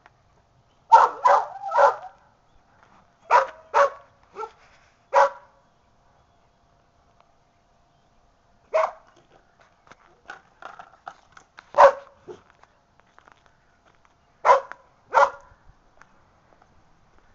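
A dog barking in short groups: three quick barks about a second in, four more over the next few seconds, then single barks spaced apart and a final pair near the end.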